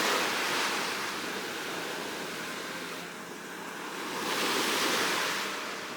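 Ocean waves washing, a rushing hiss that ebbs about three seconds in and surges again a couple of seconds later.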